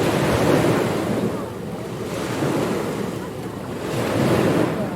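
Ocean waves breaking and washing on a beach, the surf swelling and easing in repeated surges, two to three in this stretch. Wind buffets the microphone throughout.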